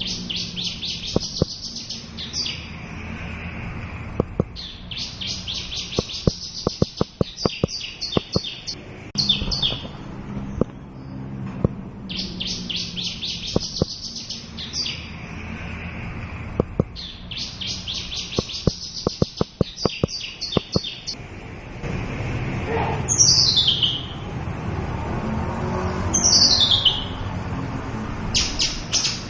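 Javanese bush lark singing: rapid, buzzy trilled phrases repeated every few seconds, with sharp clicks underneath. After about twenty seconds the song turns to single quick downslurred whistles about three seconds apart.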